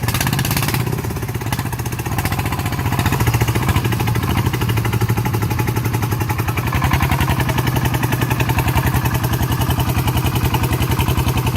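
Diesel engine of a farm vehicle running steadily, with a fast, even chugging beat throughout.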